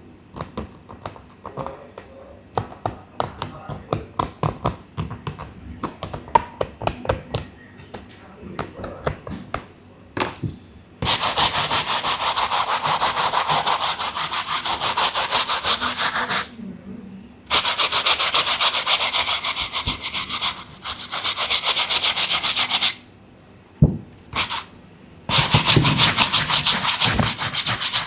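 A brush scrubbing a sneaker: scattered separate strokes for the first ten seconds or so, then long stretches of rapid, even scrubbing broken by a few short pauses.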